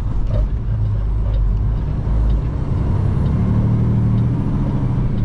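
Semi-truck engine running steadily while driving, heard as a loud low rumble inside the cab, with the engine note rising and strengthening a little past halfway.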